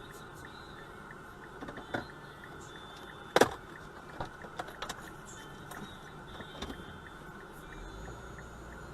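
Steady car interior noise with one sharp knock about three and a half seconds in and a few fainter clicks before and after it.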